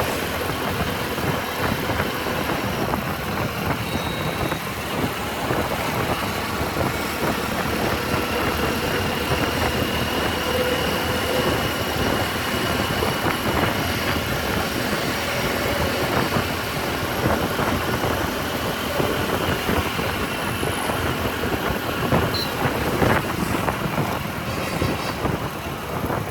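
Motorcycle running on the move through city traffic, with steady wind and road noise.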